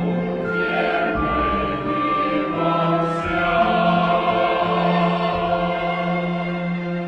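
Choir singing, holding long notes over a musical accompaniment.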